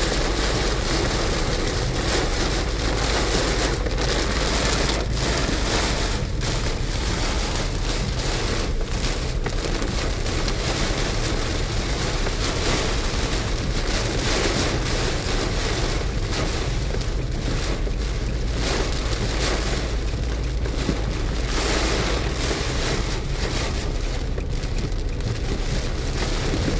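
Heavy rain pelting a moving car, heard from inside the cabin as a steady hiss over the low, even rumble of the car on the wet road.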